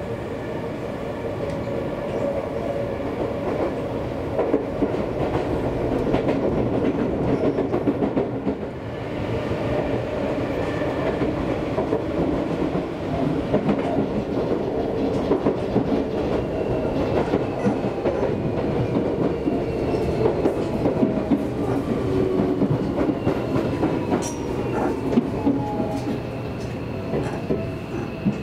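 Seibu Railway electric train running along the line, its wheels clacking over rail joints under a steady rumble, with a faint electric motor whine that rises and falls in pitch.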